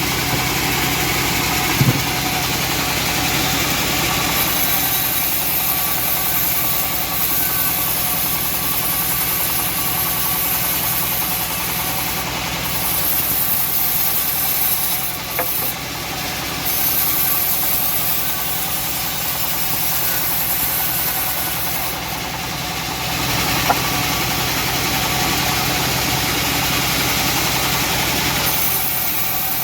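Homemade bandsaw mill running with a steady engine-like drone, with two short sharp knocks.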